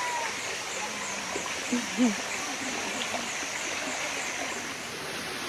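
Water of the Bua Tong Sticky Waterfall running steadily over its rock cascades. A high, regular chirping repeats about three times a second over it and stops near the end.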